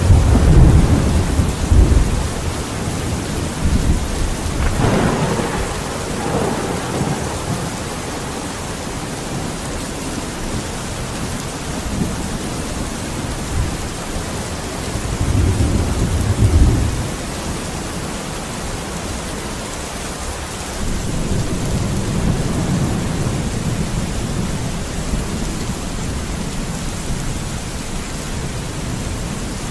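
Steady heavy rain with rolling thunder. The loudest rumble is at the start, with further rumbles about five seconds in and around fifteen to seventeen seconds, and a softer, longer one past twenty seconds.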